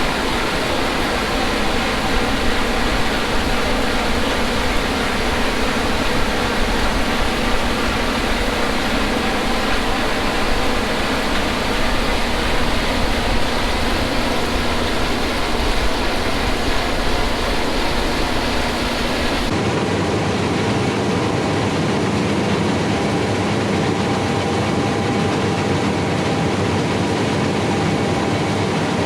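Harvest machinery running steadily, with the even drone and hum of a large diesel engine working under load. About two-thirds of the way in the sound changes abruptly to a different mix with less low rumble.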